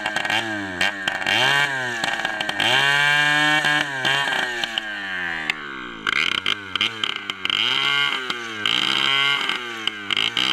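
Dirt bike engine revving up and down over and over in quick blips, with one longer rev held high about three seconds in.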